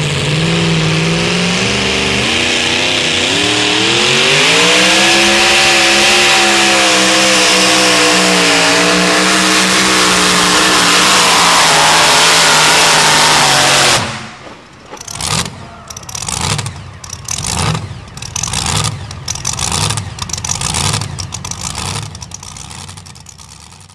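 Super modified two-wheel-drive pulling truck's engine at full throttle, its pitch rising early and then wavering under load. It cuts off suddenly about two-thirds of the way through, then comes in a string of short, uneven throttle blips.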